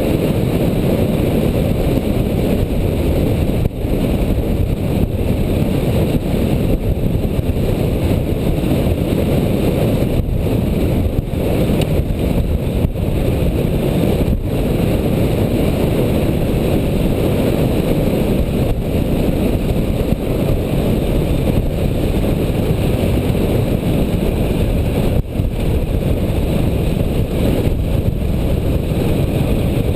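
Motorcycle running steadily on the move, a dense low rumble of engine and riding noise with a few brief dips.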